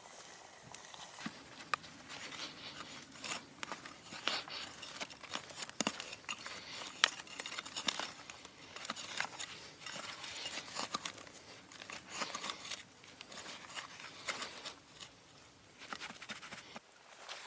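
Irregular crinkling and crackling with many small sharp clicks and snaps, like dry material being handled.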